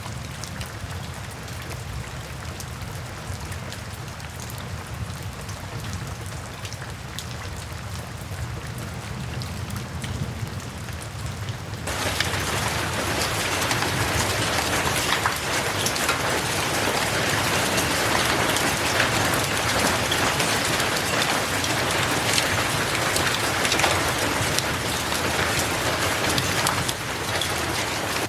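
Steady rain falling, with a low rumble beneath. About twelve seconds in it turns suddenly louder and heavier, with more hiss, and eases a little near the end.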